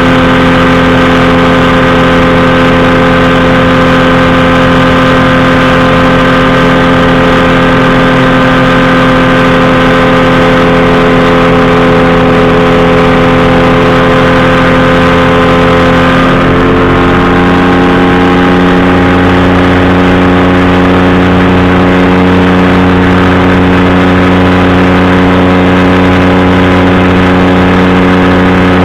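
Powered parachute's engine and propeller running steadily under power. About two-thirds of the way through the engine speed drops slightly and holds at the lower pitch.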